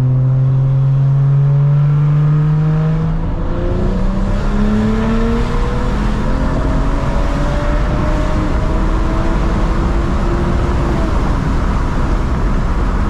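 Straight-piped BMW 335i E92 with its turbocharged N55 inline-six accelerating. The engine note climbs, drops at an upshift about three seconds in, then climbs again more slowly for several seconds before giving way near the end to a rough, toneless road noise.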